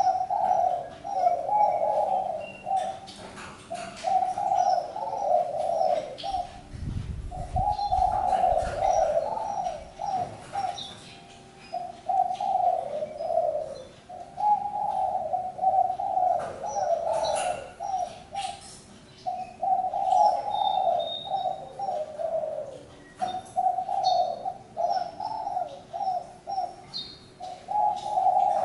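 Spotted dove cooing over and over, one phrase of about two to three seconds after another with short pauses between. Faint higher chirps come in here and there.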